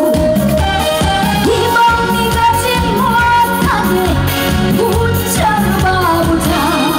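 A woman singing a trot song live, holding long notes with a wavering vibrato over band accompaniment with a steady beat.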